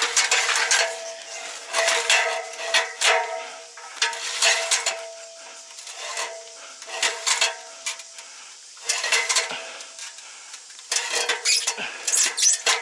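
Metal equipment clattering and clinking in repeated bursts, with a faint ringing tone under the clatter.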